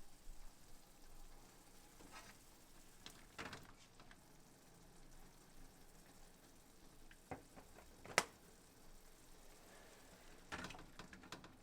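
Quiet kitchen handling sounds: a few scattered knocks and clicks of cookware and utensils, the sharpest about eight seconds in, over a faint steady hiss.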